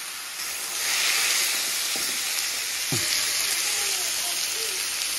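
Pork sizzling in hot oil with garlic that is already crisping, the sizzle swelling about a second in as the meat goes into the pan.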